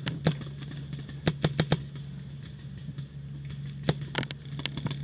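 Paintball markers firing: scattered sharp pops, single and in quick runs of three or four, over a steady low hum.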